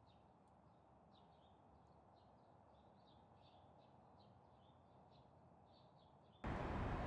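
Faint chirping of small birds: short high chirps a few times a second over a very quiet background. Near the end it cuts abruptly to a much louder, steady noise.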